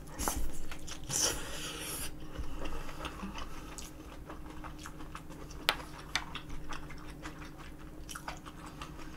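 Close-miked eating sounds: a person biting and chewing food, with wet mouth clicks and crisp crunches scattered throughout.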